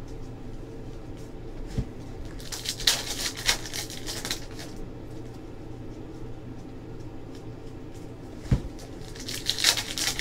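Trading cards being handled: two stretches of crisp rustling and sliding, about two and a half seconds in and again near the end, with two short soft thumps, over a steady low hum.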